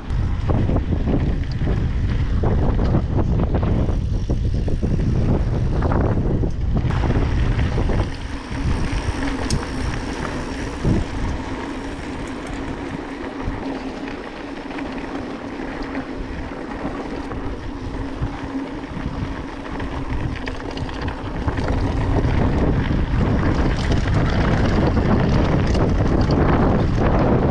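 Wind buffeting the microphone as a loud low rumble. It eases for a stretch in the middle and picks up strongly again for the last few seconds.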